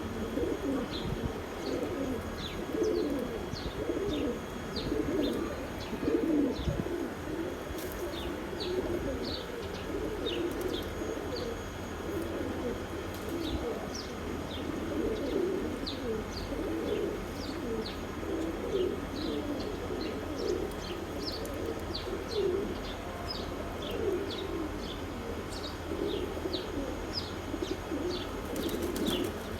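A flock of domestic pigeons cooing continuously, many voices overlapping, with short high chirps scattered throughout.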